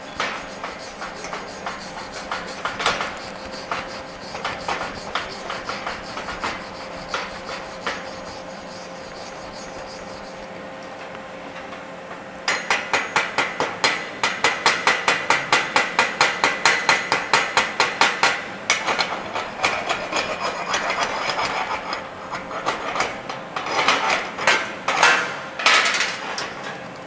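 Hand tool working over steel on a weld during welding practice. It starts with lighter, irregular scraping and taps, then about halfway through breaks into rapid, even strokes about four a second, followed by more uneven scraping: the weld being cleaned up.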